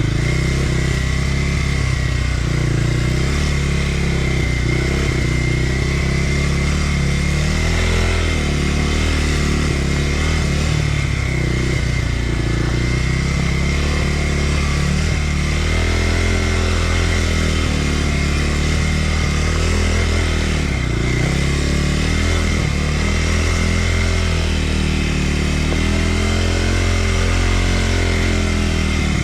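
Kawasaki KLX300R dirt bike's single-cylinder four-stroke engine running under way, its revs rising and falling over and over as the throttle is worked.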